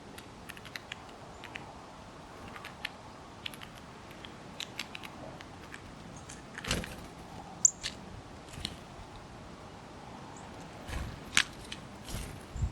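Small birds in the snow: scattered light clicks and taps, with a few louder soft thuds and one short, high, falling chirp a little past the middle.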